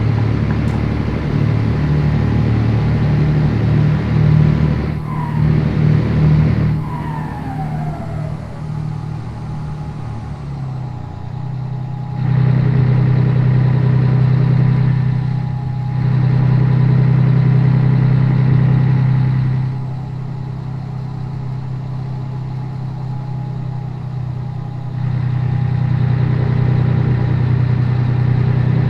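Scania 113 truck's six-cylinder diesel engine running on the road; its level drops and comes back up several times, with a short falling whistle about seven seconds in.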